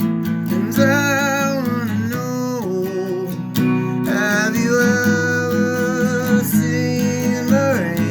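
Music: an acoustic guitar strumming steadily, with a sustained lead melody over it. The melody wavers in pitch and comes in two long phrases.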